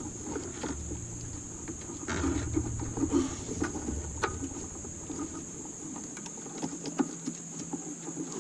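Scattered light clicks and knocks of tools and engine parts being handled, over a steady high-pitched whine.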